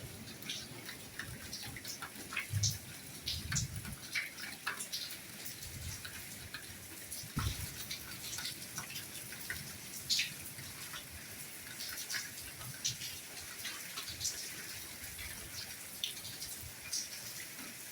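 Soft rainfall: a steady hiss with many individual raindrops ticking irregularly, plus an occasional low thud of a heavier drop.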